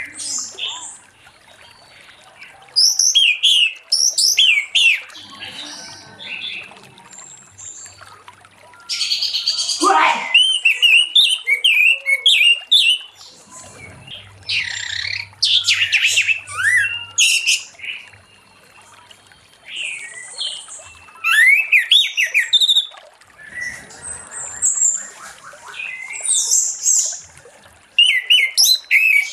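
Orange-headed thrush singing in bursts of quick, varied whistled and chirping phrases, with short pauses between them.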